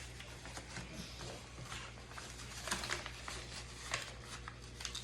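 Paper being handled and folded: light rustles and small crinkling ticks, a couple of them sharper about two-thirds and four-fifths of the way through.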